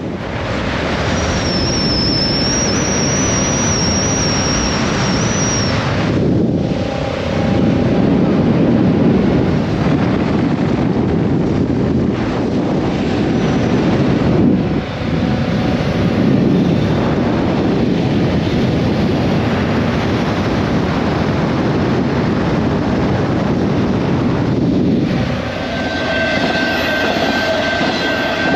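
Motorcycle under way at road speed: a steady rush of wind and road noise with the engine running underneath.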